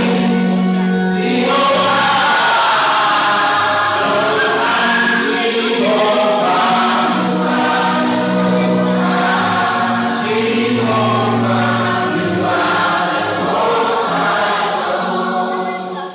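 A choir singing a gospel worship song in slow, held notes.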